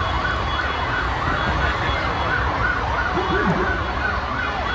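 Several sirens yelping at once, their rapid up-and-down wails overlapping, over a steady low rumble of traffic.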